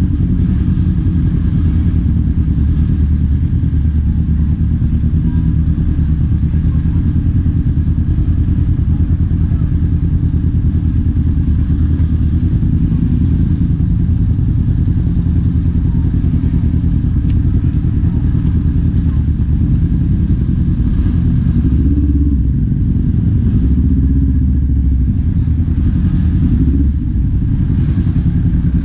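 Kawasaki Z400's parallel-twin engine running while riding, steady with small rises and falls in revs and a brief dip in level near the end.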